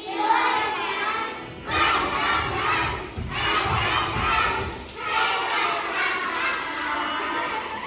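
A group of young children shouting together in about four loud phrases, with short breaks between them.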